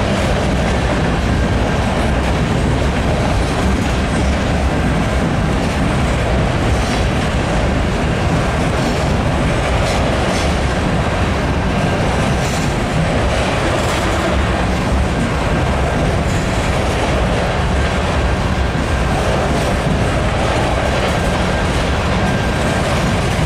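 A Norfolk Southern train of empty covered hopper cars rolling past: a steady noise of steel wheels running over the rails.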